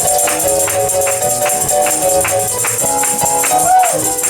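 Upbeat gospel praise music: held chords with a tambourine beating quickly and evenly, about four strokes a second.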